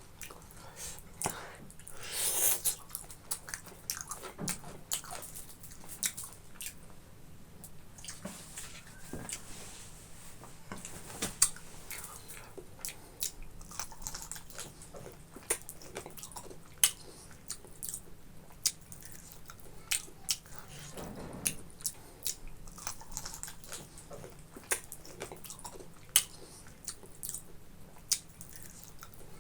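Mouth sounds of eating boiled pork and rice: chewing, with many short wet smacks and clicks.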